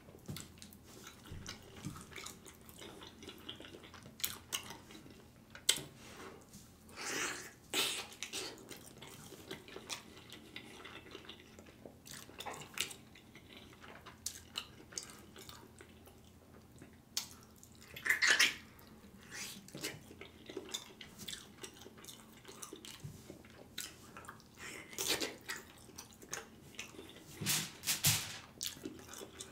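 Close-miked wet chewing and lip smacking of a person eating oxtails in sauce, made of many short sharp clicks with a few louder clusters of smacks scattered through.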